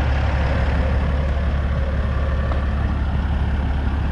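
Diesel truck engine idling steadily, a continuous deep low hum with no change in speed.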